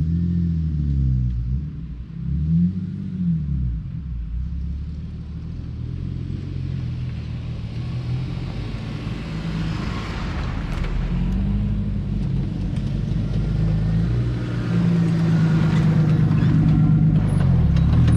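Off-road vehicle engine running at low speed, its pitch rising and falling as it is revved, with a few sharp knocks near the middle.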